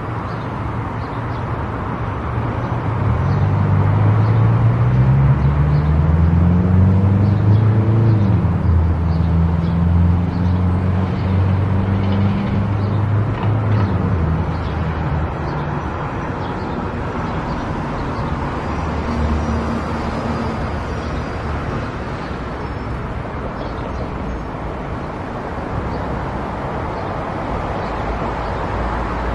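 Car driving on the road: steady engine and tyre noise. The engine note climbs as the car accelerates from about three seconds in, then levels off into steady cruising.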